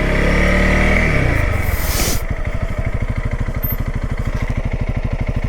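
Motorcycle engine with its revs falling as the bike slows, under rushing wind noise that cuts off about two seconds in; the engine then idles with a steady, even beat.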